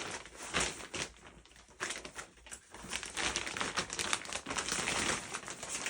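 Plastic wrapping crinkling and rustling as it is pulled off a shotgun, in irregular crackles that grow busier about halfway through.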